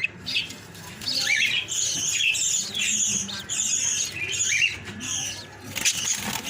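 Small cage birds chirping: a quick run of repeated high chirps, about two a second, between about one and five seconds in.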